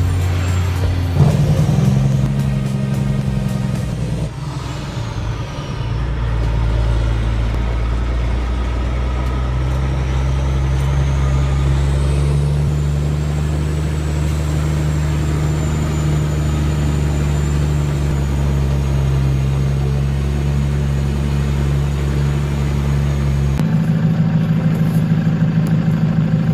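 A heavy machine's engine running steadily, its pitch and load shifting a few times, with a faint high whine above it.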